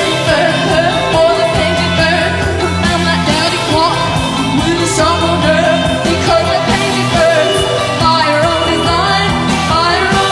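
Post-punk band playing a song, with a woman singing lead over driving drums, bass and guitar.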